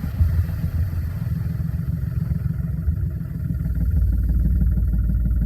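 John Deere 5105 tractor's three-cylinder diesel engine running under a 90-quintal load, getting louder and heavier about four seconds in.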